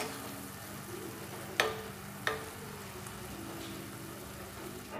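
Oyster meat and ground-coconut masala sizzling steadily in an earthenware pot on the stove, with two sharp taps about a second and a half and two and a quarter seconds in.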